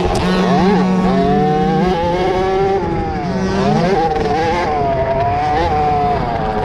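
Small 50cc two-stroke motocross bike engines racing, their pitch repeatedly dropping off and climbing again as the riders back off and twist the throttle, with more than one bike heard at once.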